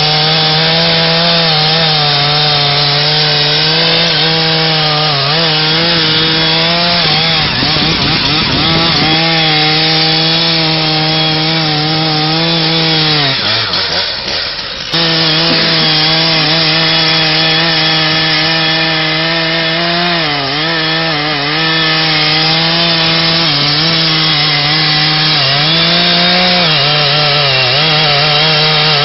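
Chainsaw running at high, steady revs while cutting into a tree. About halfway through, its pitch sags and drops under load, then abruptly returns to full speed.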